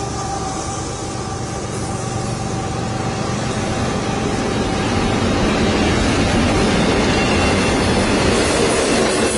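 Freight train rolling past, a steady rumble and rail noise that grows gradually louder, with faint wheel squeal.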